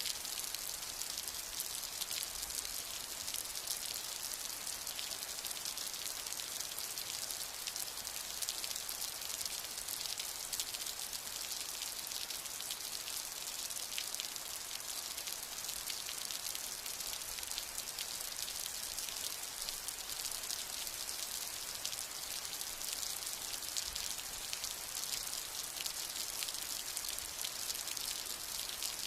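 Steady rain falling: an even, dense hiss of many drops, brightest in the high range, with no change in strength.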